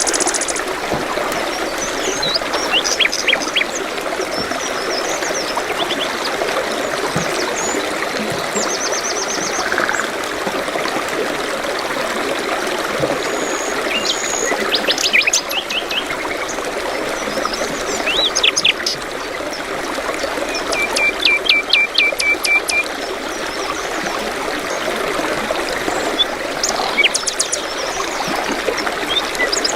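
Small songbirds chirping and trilling over the steady rush of running water, with the busiest burst of rapid notes a little past the middle.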